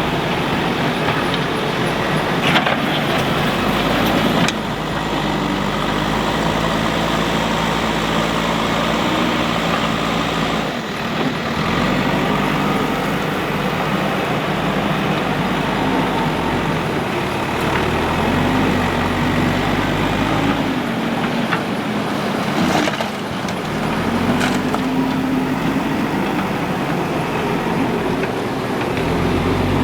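Diesel engines of a backhoe loader and dump trucks at work, the pitch rising and falling as the engines rev under load, with a few sharp knocks.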